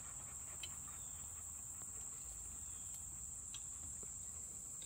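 Steady, high-pitched drone of an insect chorus, with a few faint ticks over it.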